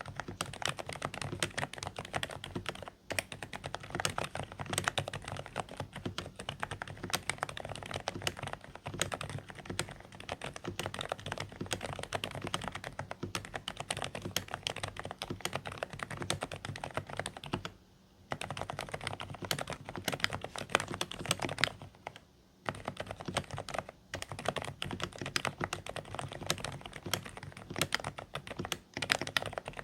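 Steady, fast typing on a Dareu A104 Pro mechanical keyboard with silent beige switches, giving quiet, slightly muffled keystrokes. The typing stops briefly twice a little past the middle.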